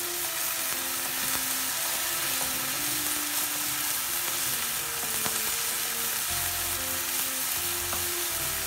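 Water and hot oil sizzling steadily in a nonstick frying pan of cubed eggplant, just after half a cup of water went in to steam it, while a wooden spatula stirs the pieces. Background music plays underneath.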